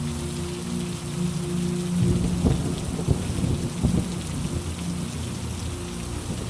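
Steady rain falling, with a roll of thunder rumbling in about two seconds in and cracking a few times before fading back into the rain.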